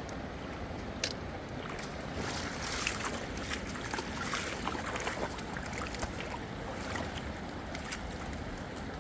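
Water sloshing and splashing over a steady low rumble, with a sharp click about a second in and a flurry of irregular splashes in the middle.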